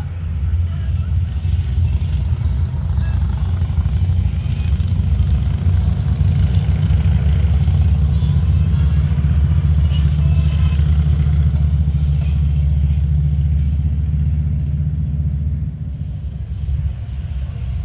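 Motorcycle engine running with a steady low rumble that eases off in level near the end.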